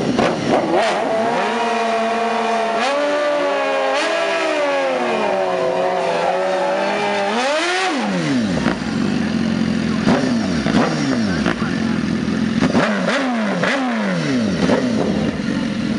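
Two sport-bike engines, one a BMW S1000RR, revving hard at a standstill, with overlapping rising and falling throttle blips, as the rear tyres spin in a smoking burnout.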